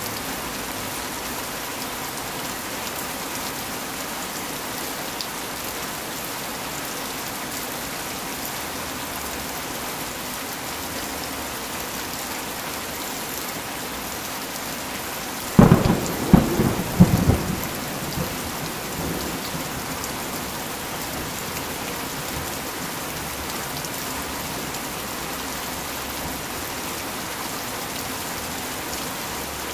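Steady heavy rain falling. About halfway through, a close thunderclap breaks in as a quick run of loud sharp cracks over about two seconds, then dies away.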